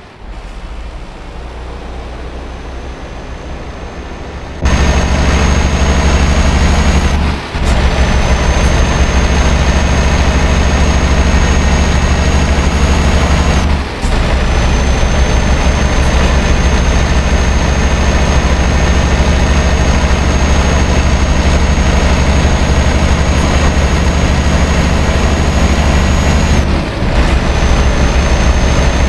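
Scania R560's V8 diesel engine running steadily under heavy load. It is quieter for the first few seconds, then much louder, and the sound drops out briefly three times.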